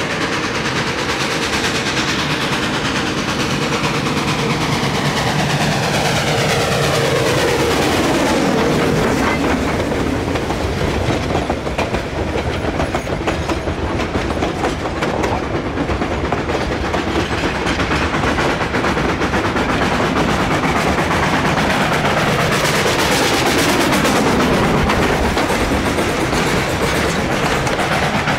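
Durango & Silverton narrow-gauge steam train passing close by, its wheels clicking over the rail joints in a steady rumble. The sound sweeps down in pitch twice, about a third of the way in and again near the end, as the louder parts of the train go past.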